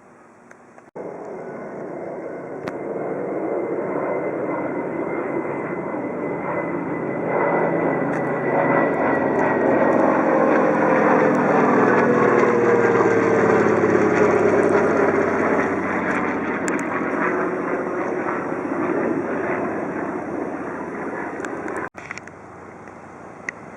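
Propeller-driven vintage warbird passing by under power. The engine grows louder toward the middle, and its tone drops in pitch as it goes by, then it fades. The sound cuts in abruptly about a second in and cuts out shortly before the end.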